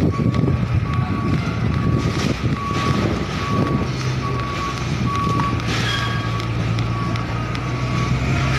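Tractor-trailer truck reversing: its reversing alarm beeps at an even pace over the steady running of its diesel engine.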